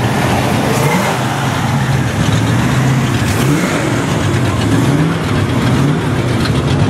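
Car engine running at low revs with a few short throttle blips, its low rumble rising and falling in pitch several times.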